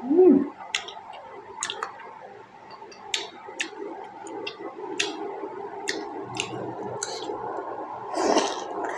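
Close-miked eating of juicy pork momo: wet chewing with sharp mouth smacks and clicks, roughly one a second. It opens with a short hummed 'mm' and has a breathy swell near the end.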